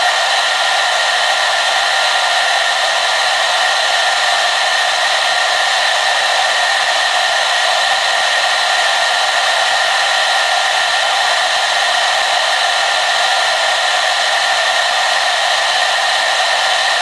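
Hair dryer running steadily, an even rush of blown air with a constant whine from its motor and fan.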